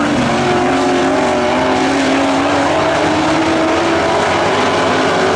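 Pro Truck dirt-track race trucks' engines running at racing speed, their pitch rising and falling a little as the drivers get on and off the throttle around the oval.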